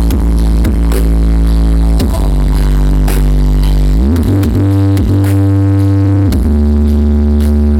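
Electronic dance music played very loud through a giant 'sound horeg' carnival sound system, its heavy bass notes held for a second or two each and sliding between pitches a couple of times.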